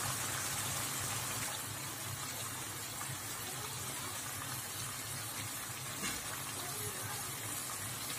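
Octopus pieces sizzling steadily in a hot wok, an even hiss with a low hum underneath.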